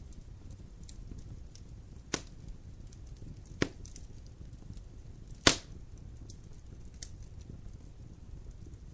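Wood fire in a fireplace crackling over a low steady rumble, with three sharp pops about two, three and a half and five and a half seconds in, the last the loudest.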